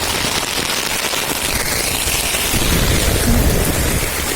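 Heavy rain falling with a steady hiss, and a low rumble swelling for about a second and a half in the second half.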